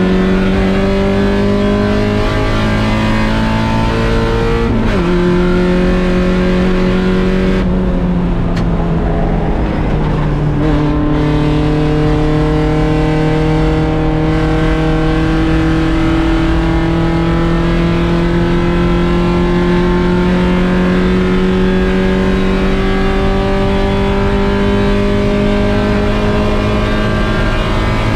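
1.6-litre Mazda Miata's four-cylinder engine under racing load: revs climb, drop sharply about five seconds in as it shifts up, fall away with a rougher stretch around eight to ten seconds in as it slows for a corner, then climb slowly and steadily on a long pull.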